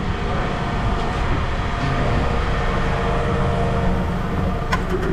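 A large engine or machine running steadily, with a sharp click near the end.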